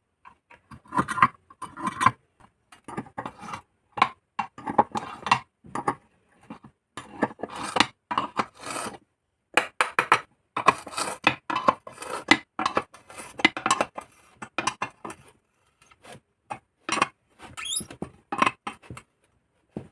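Metal parts of an old electric iron clinking and scraping as it is put back together, its cover seated and its fastenings tightened by hand. Irregular clicks and short rubs come one after another.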